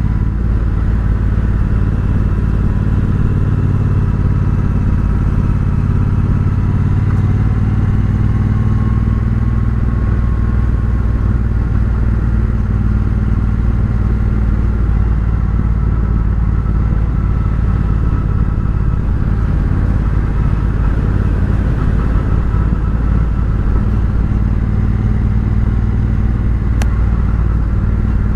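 Triumph Bonneville Bobber's 1200 cc parallel-twin engine running at a steady cruise through a Vance & Hines exhaust, its engine note holding nearly level.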